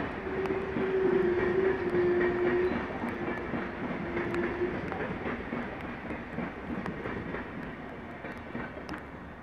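An SBB InterRegio train, hauled by an Re 460 locomotive, rolls through the station with a rumble and wheel clicks. A steady whine runs through it and stops about halfway. The sound then fades as the train moves away.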